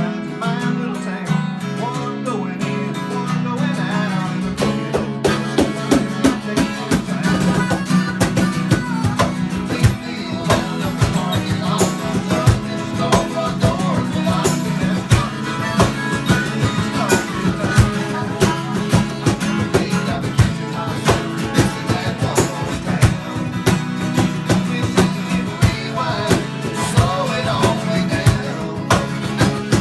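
Live Americana/country band playing, with acoustic guitar prominent and a steady beat coming in about four seconds in.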